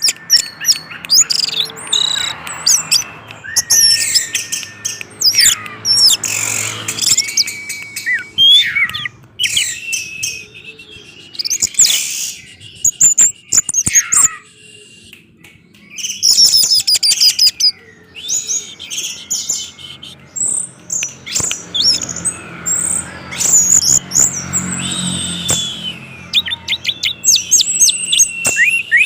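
Orange-headed thrush singing: a varied run of rapid whistled and chirping phrases, full of rising and falling notes, broken by a few short pauses.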